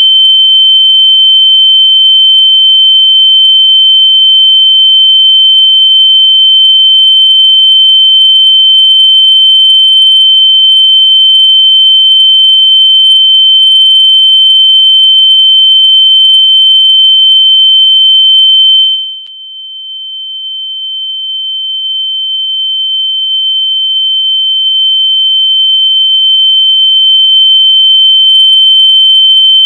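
A single loud, steady, high-pitched electronic tone, played to make lost AirPods audible so they can be found. About two-thirds of the way through it drops sharply in loudness with a brief glitch, then swells gradually back to full level over several seconds.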